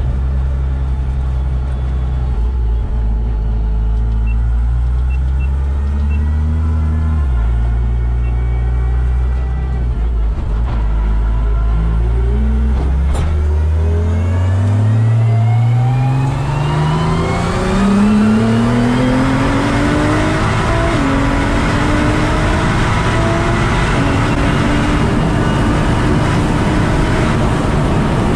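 Nissan GT-R R35's twin-turbo V6 engine, heard from inside the car, running at low revs for the first dozen or so seconds. It then accelerates, its pitch climbing steadily over several seconds, with a gear change and a further rise near the end.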